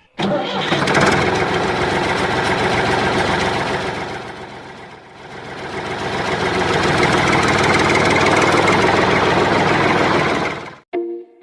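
A small motor running, starting suddenly, dropping in loudness for a moment midway, then building back up and cutting off abruptly near the end.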